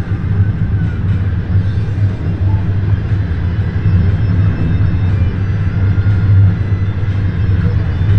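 Passenger train in motion, heard from inside the carriage: a steady, loud low rumble of running gear and track noise.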